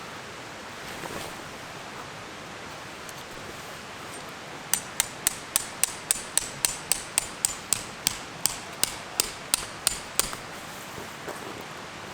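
A hammer driving a metal tent peg: a run of about twenty quick, sharp blows, a little over three a second, starting about five seconds in and stopping near the end.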